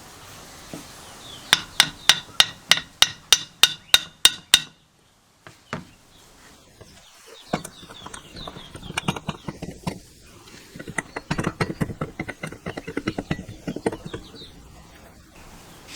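A hammer striking metal about eleven times in a steady rhythm, roughly three blows a second, then a pause followed by a run of lighter, irregular taps and clinks.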